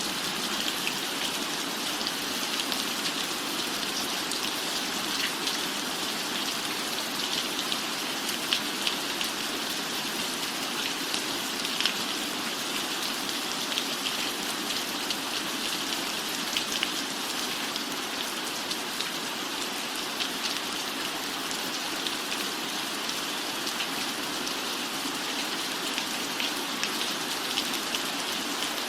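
Steady rain falling: an even hiss with many fine, quick drop ticks.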